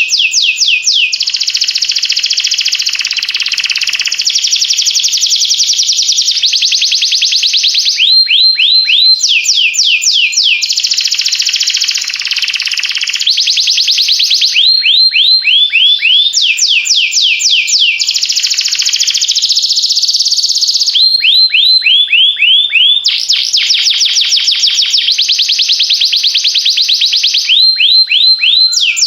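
Canary singing a continuous song of fast trills. Each phrase is a rapid run of repeated notes, many sweeping down from high to lower pitch, and the bird switches to a new phrase every second or two.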